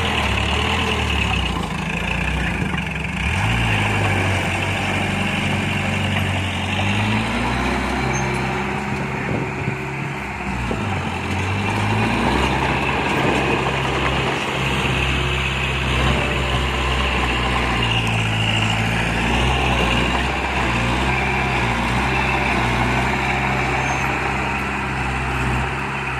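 Diesel engine of heavy earthmoving machinery running steadily, its engine speed rising and falling several times as it works.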